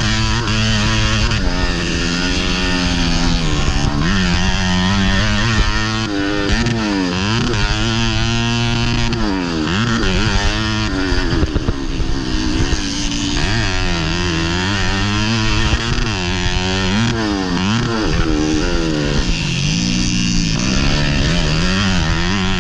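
Modified underbone (bebek) motorcycle engine racing hard, its pitch climbing and dropping back again and again as the throttle is opened and closed and the gears change, heard from on board.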